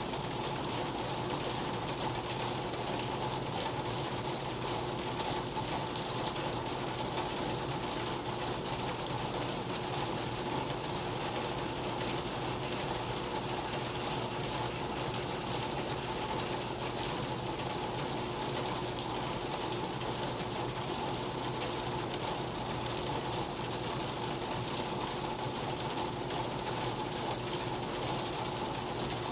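Steady rain: an even hiss thick with fine, rapid drop ticks, with a faint steady hum underneath.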